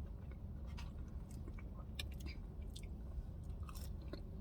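Close-up chewing of soft, battered onion rings, a scatter of small wet mouth clicks and smacks. The rings have gone soft and are no longer crispy.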